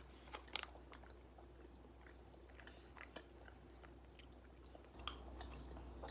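Faint chewing of a soft, gummy candy, heard as a few scattered quiet mouth clicks.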